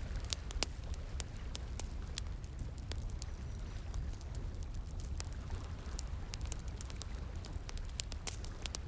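Wood fire crackling, with irregular sharp pops and snaps over a steady low rush of flowing water.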